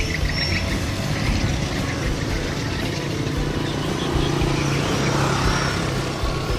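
A motor running steadily, heard as an even low hum.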